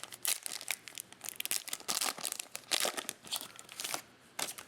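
Trading card pack wrapper crinkling and being torn open, a rapid run of sharp crackles.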